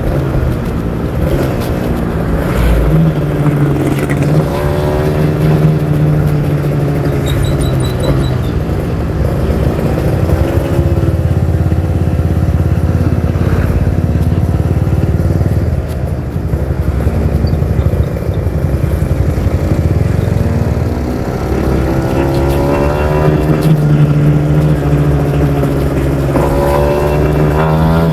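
Kawasaki Ninja R 150's single-cylinder two-stroke engine running and revving, its pitch rising and falling several times and climbing again near the end.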